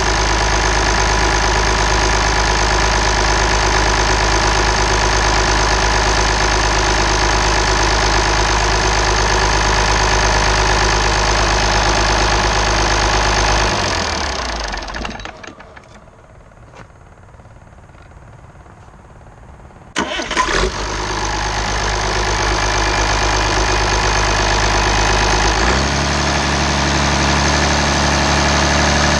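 International DT414 turbocharged diesel engine running steadily, then shut off about halfway through and winding down over a second or two. After a few quieter seconds it is started again with a sudden burst and runs on, its engine note shifting a few seconds later.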